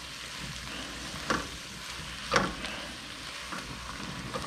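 Chicken frying in olive oil and butter in a pan, a steady sizzle. Two sharp clacks come through about a second and two and a half seconds in.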